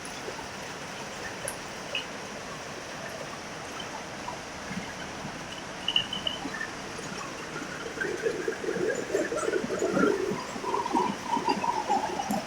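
Heavy rain falling steadily. About eight seconds in, an unclear wavering, pitched sound rises over it and carries on to the end.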